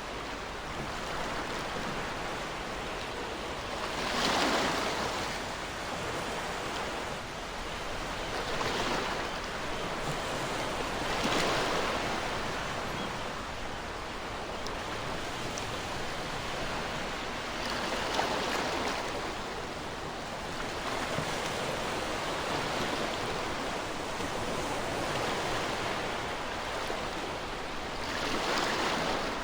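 Ocean waves breaking and washing on a shore, a steady rush with a wave swelling louder every few seconds, about five times.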